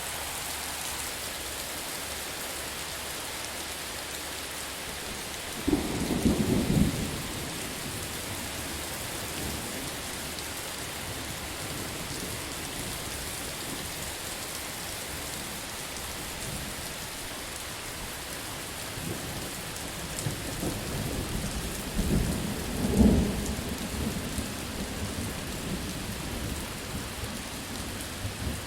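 Steady heavy rain with two rolls of thunder: a short low rumble about six seconds in, and a longer one that builds through the second half and peaks near the end.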